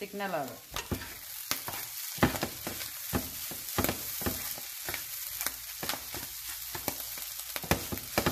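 Clam meat sizzling as it fries in oil in a nonstick pan, stirred with a wooden spatula that knocks and scrapes against the pan many times at an irregular pace.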